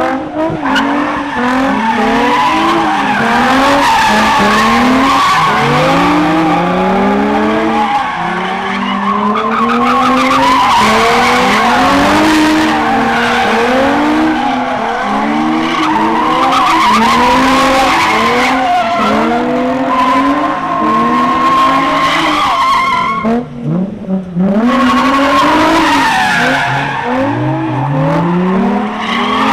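A muscle car's engine revving again and again in quick rising sweeps while its tyres screech and spin on the pavement. The engine drops out briefly about three-quarters of the way through, then picks back up.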